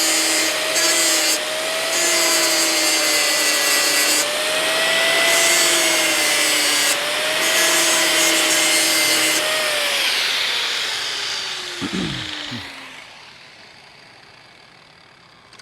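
Grinder running and cutting into an aluminium weld in several stretches, grinding out a short section that charred up from contamination. About ten seconds in it is switched off and its whine falls as it winds down, with a couple of knocks.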